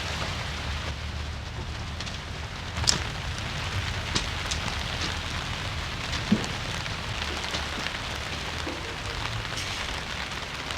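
Rain falling steadily on the plastic sheeting of a polytunnel, a continuous even hiss with a few sharper drop hits about three, four and six seconds in.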